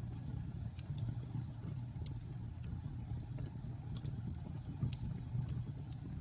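Wood bonfire burning: a steady low rumble of flames with sharp, irregular crackles and pops of burning wood.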